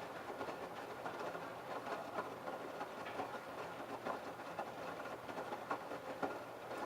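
LG F1222TD direct-drive front-loading washing machine tumbling its load in the prewash: wet laundry and water sloshing and dropping in the drum with irregular soft knocks, over a faint steady motor hum.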